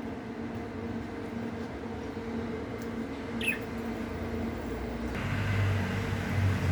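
Steady low hum and background noise, with a single short, falling budgerigar chirp about three and a half seconds in. A louder low rumble sets in about five seconds in.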